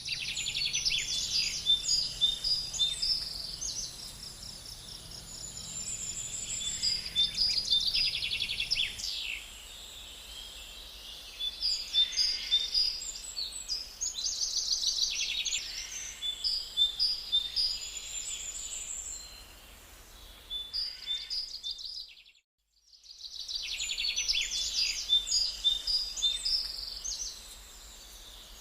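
Songbirds singing in a forest, phrase after phrase of chirps and quick repeated notes with short pauses between. A thin, steady, high-pitched tone sits under the song for the first third, and the sound drops out to silence for about a second roughly three-quarters of the way through.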